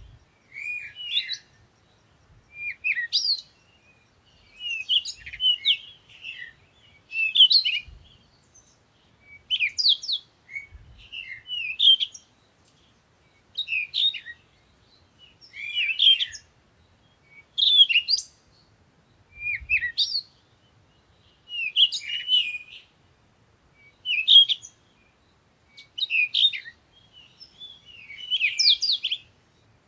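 A songbird singing short chirping phrases, one about every two seconds with brief pauses between.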